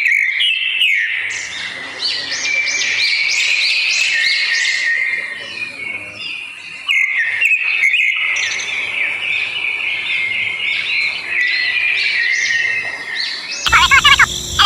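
Many birds chirping at once, a dense, continuous chatter of short high chirps. About a second before the end it cuts suddenly to a different, louder sound.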